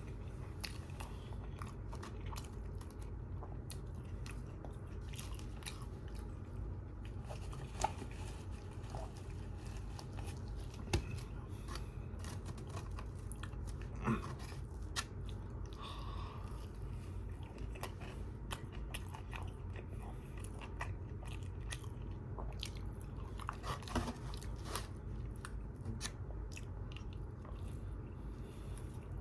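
Close-miked chewing and biting, with crunchy bites and many small wet clicks over a steady low hum, and a few louder sharp clicks scattered through.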